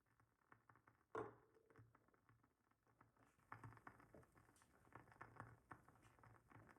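Wooden wick of a WoodWick candle crackling faintly as it burns: irregular small pops, with one louder crack about a second in and denser crackling in the second half.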